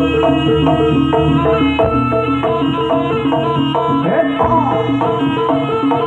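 Live traditional ensemble music for a barong dance: a fast steady beat of drums and repeated struck pitched notes, with a voice or wind instrument sliding in pitch about two thirds of the way through.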